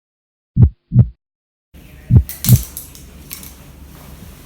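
Newborn heart sounds, lub-dub pairs of low thumps about 1.5 s apart, roughly 40 beats a minute: a slow newborn heart rate. Light clicking and clattering of handled equipment about two seconds in.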